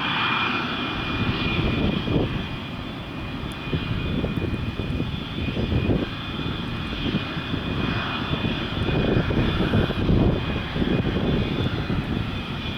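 Jet airliner engines at low thrust while taxiing: a steady high whine over an uneven low rumble.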